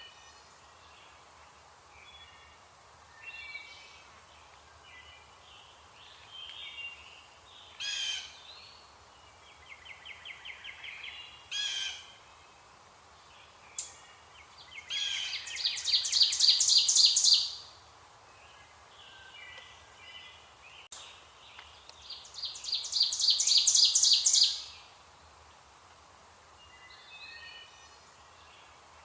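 Songbirds calling and singing, with many short chirps and whistles. Two loud songs of rapid repeated notes, each lasting about two to three seconds, come about halfway through and again a few seconds later.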